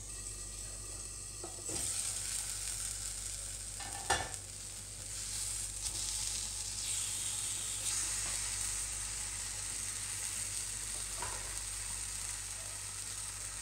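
Tomato slices sizzling in a little oil in a non-stick frying pan, the sizzle louder once the lid comes off about two seconds in. A single sharp knock about four seconds in, and a silicone spatula moving the slices.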